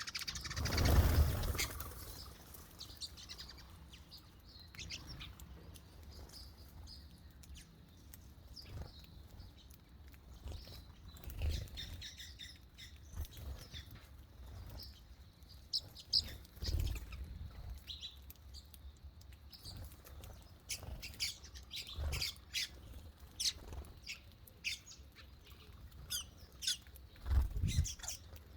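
Small birds chirping and squawking in short, scattered calls, with a few low thumps and rustles among them, the loudest a brief rush about a second in.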